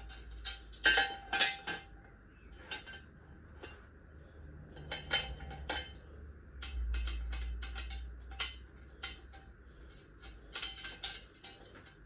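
Irregular metallic clinks and knocks of hand tools and metal car parts being handled, some ringing briefly, the loudest about a second in. A low rumble swells for about a second past the middle.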